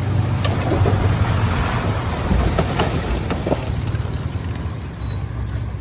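Heavy diesel engine of earthmoving machinery running steadily, with a few sharp cracks in the first few seconds.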